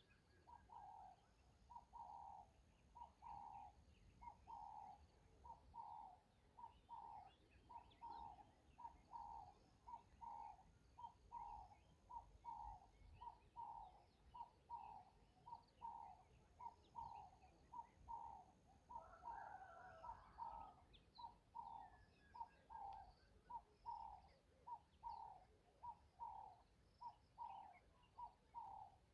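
A bird calling steadily, one short note over and over, about one and a half notes a second, with a brief busier flurry of calls about two-thirds of the way through.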